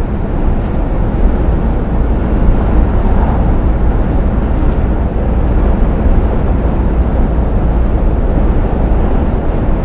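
Truck at steady motorway speed: a continuous low rumble of the diesel engine and tyre and road noise, with no change in pace.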